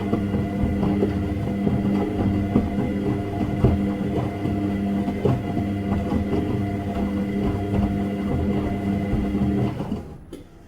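Washing machine running, with a steady motor hum and irregular knocks. The motor cuts out about ten seconds in and the sound drops to a much quieter background.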